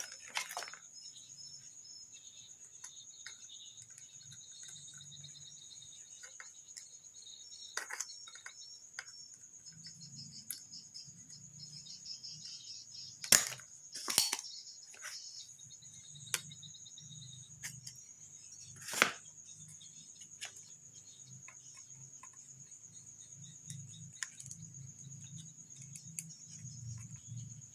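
Crickets chirring steadily in the background, with a few sharp clicks and taps from hand tools on a circuit board. The loudest clicks come about halfway through, again a second later, and about two-thirds of the way in.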